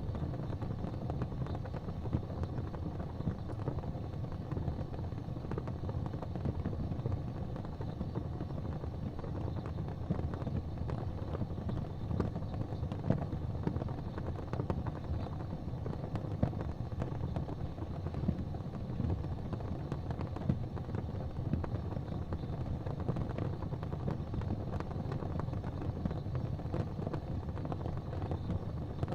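Fire crackling in a fireplace: frequent sharp pops and snaps over a steady low rumble.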